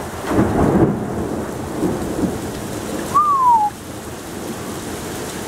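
Torrential thunderstorm rain pouring down steadily, with thunder rumbling low in the first second or so. A single short whistle-like tone falls in pitch about three seconds in.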